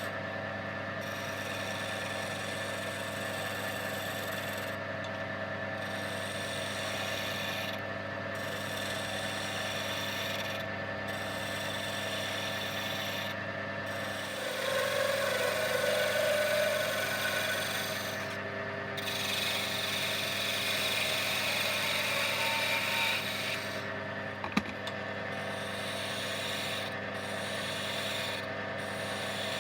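Wood lathe motor running steadily while a cutting tool shapes a beech blank into a dowel, a rasping cut over the hum that grows louder for several seconds about halfway through. A single sharp click near the end.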